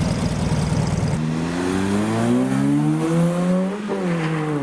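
Car engine, first running rough and lumpy, then, about a second in, accelerating with its pitch rising steadily. Near the end the pitch drops briefly as it changes gear, then climbs again.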